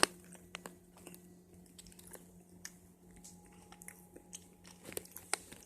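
Faint chewing: scattered small crunching clicks of food being bitten and chewed, over a steady low hum.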